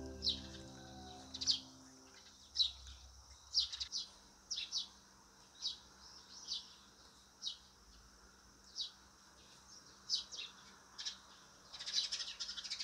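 Small birds chirping: short, sharp, high chirps about once a second. Soft background music fades out in the first two seconds.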